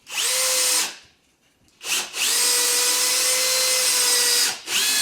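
Drill-driver running in bursts while screws are driven into timber: a short run, a brief blip, a longer run of about two seconds, then another short burst near the end. Each run starts with a quick rise in pitch.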